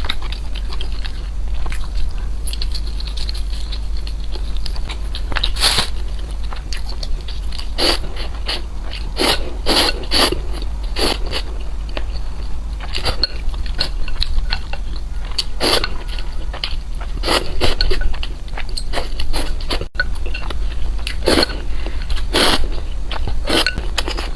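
Close-miked eating: irregular crisp crunches and chewing of food, with a steady low hum underneath.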